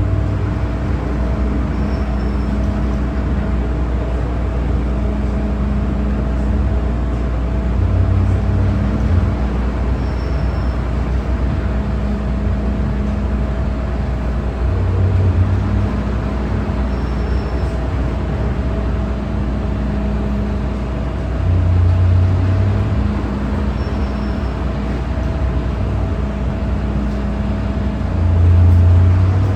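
MTR M-Train electric multiple unit running between stations: a steady rumble with a low hum, swelling with a heavier low throb about every seven seconds.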